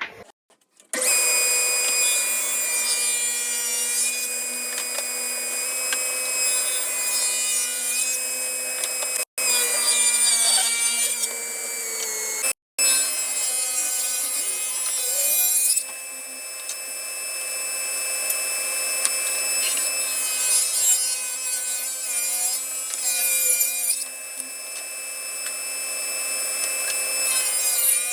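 Power saw running and cutting wood boards to size, a steady motor whine with the noise of the blade in the wood, broken by a few abrupt cuts in the recording.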